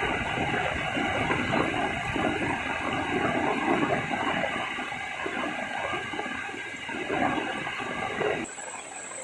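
Heavy rain pouring down, with water rushing and splashing in a loud, steady torrent. It cuts off abruptly near the end, leaving a quieter background with a faint, steady high-pitched tone.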